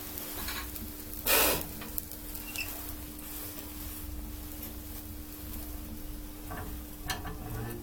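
Freshly lit firewood crackling in a wood-burning garage stove, over a steady hum. About a second in comes a short loud scrape, the stove's ash-pit draught door being shut.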